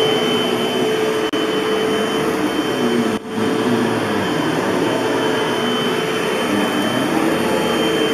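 Hoover Elite Rewind bagless upright vacuum cleaner running on carpet: a steady motor hum with a thin high whine. The sound dips briefly twice, about a second in and about three seconds in.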